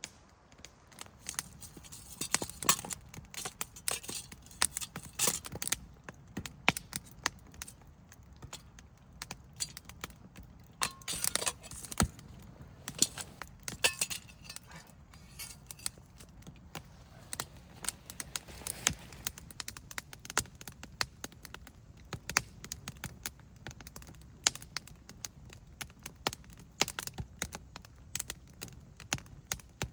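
Wood fire crackling, with frequent sharp, irregular pops and snaps over a low background hiss.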